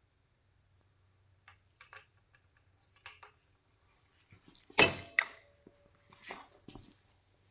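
Small metal parts being handled on a workbench: a few light clicks and taps, then a loud metal clank about five seconds in that rings briefly, followed by a couple of softer knocks.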